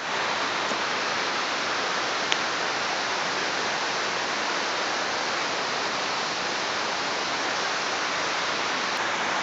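Running water rushing steadily, an even unbroken hiss of water.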